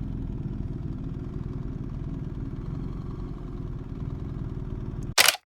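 BMW R1300GS boxer-twin engine idling steadily. It cuts off abruptly about five seconds in, followed by a brief loud burst of noise.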